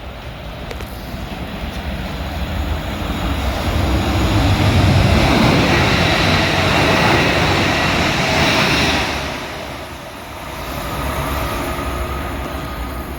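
A train passing with rumble and rail noise. It builds over the first few seconds, stays loudest for about five seconds, eases off, then rises again near the end.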